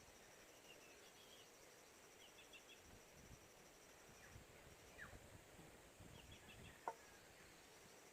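Faint forest ambience: a steady, pulsing high insect trill with a few short, high bird chirps. A single sharp click sounds about seven seconds in.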